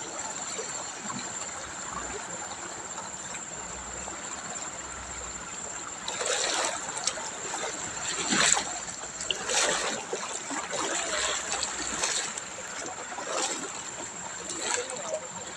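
River water running steadily. From about six seconds in there are repeated splashes, roughly one a second.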